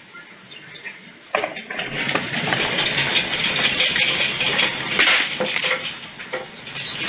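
Earthquake shaking: a sudden onset a little over a second in of loud rattling and clattering, with dense sharp knocks, as objects and the building are shaken by the magnitude 6.4 quake.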